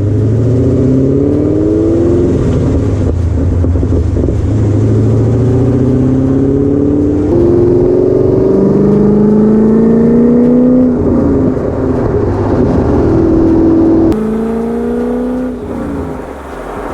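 C5 Corvette's V8 engine accelerating hard, its pitch climbing and then dropping back at each gear change, several times over.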